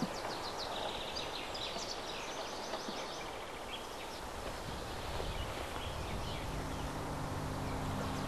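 Wild birds calling in woodland: rapid runs of short, high notes for the first few seconds, then scattered notes over a steady outdoor hiss. Low sustained music tones fade in near the end.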